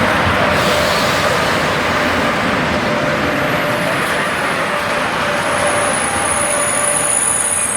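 High-speed TGV-type train moving through the station with a steady loud rushing noise. About halfway in, thin high-pitched squealing tones from the wheels come in and hold.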